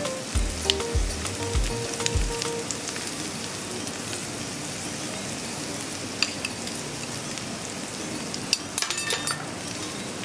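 Shredded cabbage sizzling in hot oil in a pan as it is sweated, with a steady crackle throughout. A quick run of clicking and scraping from the spatula stirring it comes near the end.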